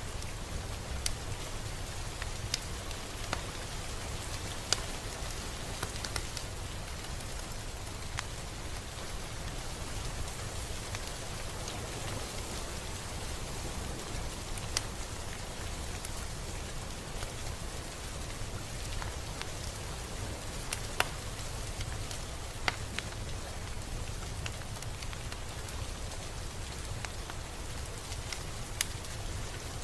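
Steady rain falling, with a continuous hiss and scattered sharper ticks of single drops landing a second or more apart.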